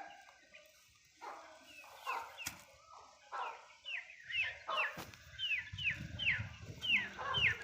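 Birds calling: scattered calls, then from about halfway through a quick run of short, falling chirps, roughly two a second.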